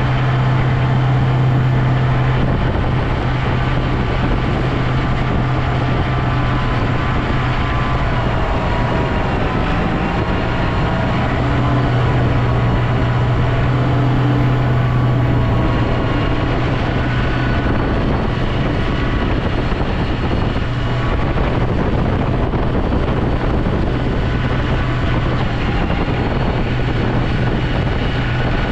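Snow plow vehicle's engine running steadily under load, a constant low drone with no change in pitch.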